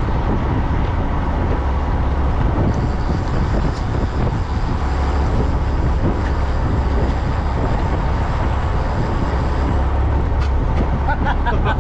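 Fishing boat's engine running steadily under a broad rush of noise.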